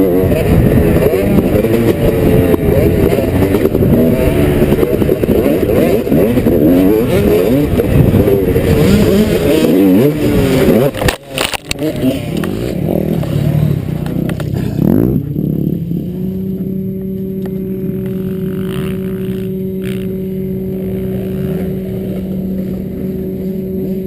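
Motocross bike engine heard from the rider's helmet, revving up and down under heavy wind noise. About eleven seconds in the sound breaks sharply with a few knocks and a drop in level. From about sixteen seconds on, a steady drone holds at one pitch.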